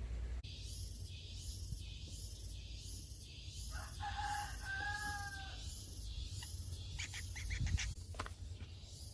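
A rooster crowing once in the background, a drawn-out call about four seconds in that falls slightly at its end, over a steady high hiss with a regular pulse. A few short, sharp chirps follow near the end.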